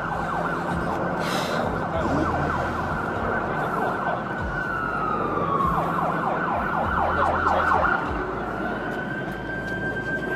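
Emergency vehicle siren wailing: its pitch holds high, slides down about four seconds in and climbs back near the end, over a steady low rumble.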